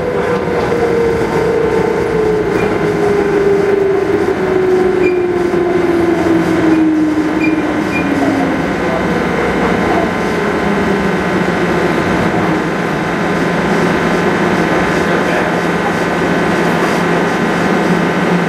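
KL Monorail train heard from on board, behind the driver's cab: the motor whine falls steadily in pitch over the first eight seconds or so as the train slows for a station, over a steady running hum.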